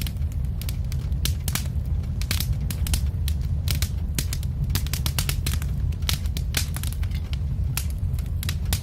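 Wood fire crackling: a steady low rumble of burning with irregular sharp pops and snaps, several each second.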